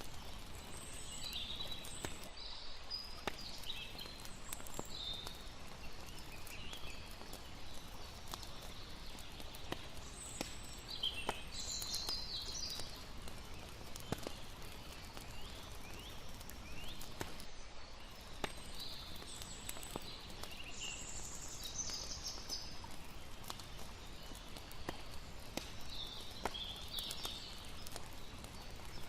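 Layered campfire-and-water night ambience: a crackling fire giving sharp pops every second or so over a steady wash of water. Scattered high-pitched chirping calls sound throughout.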